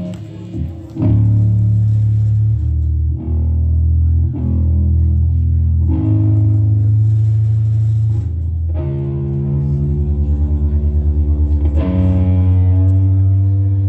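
Amplified guitar music: long held low notes, each changing every second or two, with a fast pulsing wobble for a few seconds past the middle.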